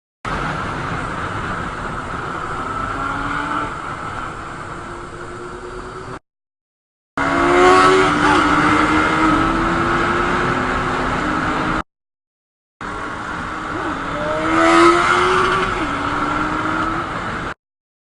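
Motorcycle engine revving, its pitch rising and falling over a steady rush of wind noise, in three short clips each cut off by about a second of silence. The engine swells loudest about 8 and 15 seconds in.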